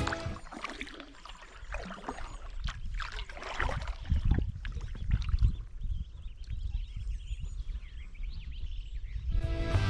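Kayak paddle strokes splashing and water trickling off the blades, irregular and fairly quiet, with a low rumble underneath. Background music fades out at the start and comes back near the end.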